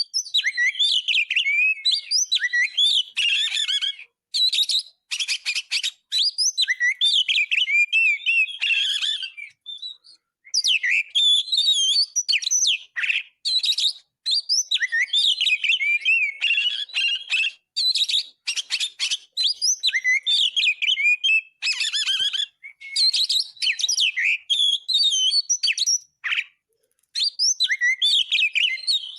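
Oriental magpie-robin (kacer) singing loudly and continuously: rapid, varied whistles, chirps and trills packed with mimicked phrases, delivered in long runs broken by short pauses, about ten seconds in and again near the end.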